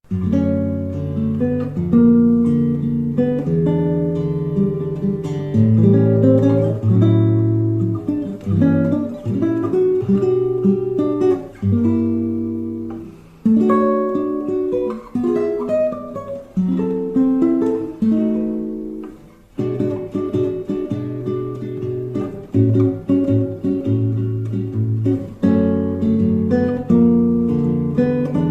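Acoustic guitar playing an instrumental bossa nova arrangement: picked chords over a moving bass line, with the notes left to ring out twice in short pauses, about halfway through and again a few seconds later.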